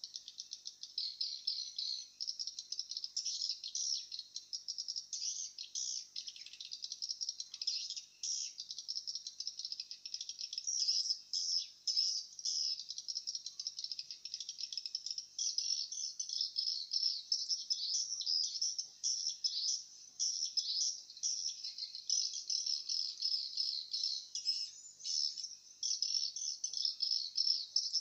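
Swiftlets twittering: a dense, continuous chatter of rapid, rattling high chirps.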